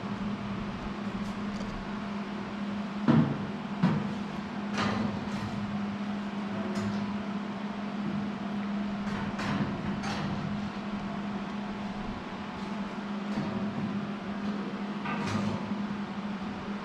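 Scattered metal knocks and clanks of steel frame pieces being handled and positioned on a fabrication table, the two loudest about three and four seconds in, over a steady low hum.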